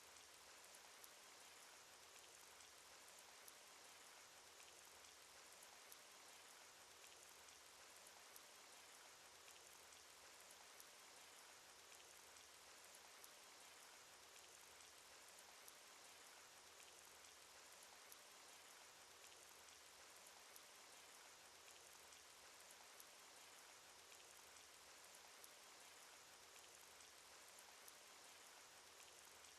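Cartoon rain sound effect: a steady, faint hiss of rain with scattered single drop ticks.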